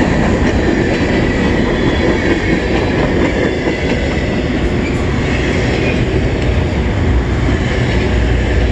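Freight cars, autoracks and covered hoppers, rolling past on the rails: a steady, loud rumble of steel wheels on track.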